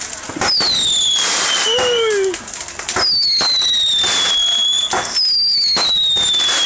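Whistling fireworks going off: three long whistles, each falling in pitch over about two seconds, among sharp bangs.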